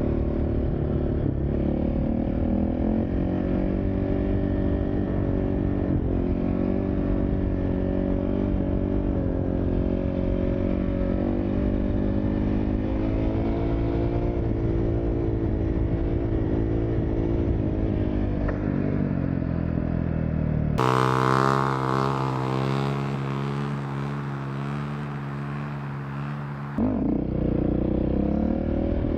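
Dirt bike engine running under throttle, its pitch drifting up and down, with heavy wind rumble on the microphone. About 21 s in, a cleaner recording of the engine holding a steady note cuts in and slowly fades. It ends abruptly, and the rougher engine and wind sound returns.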